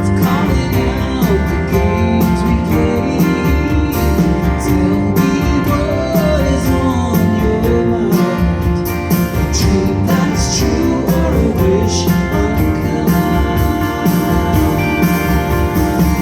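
A band playing live with guitars and drums, a singer's voice over the top.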